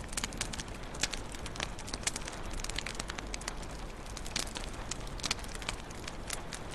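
Wood fire crackling in a fireplace: irregular sharp pops and snaps over a steady low hiss of flame.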